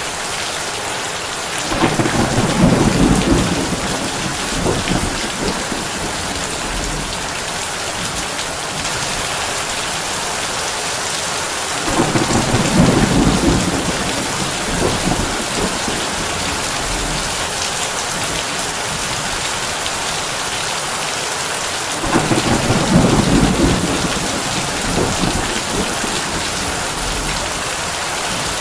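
Heavy rain drumming steadily on a tin roof. Three rolls of thunder come about ten seconds apart, each rumbling for a few seconds before fading back into the rain.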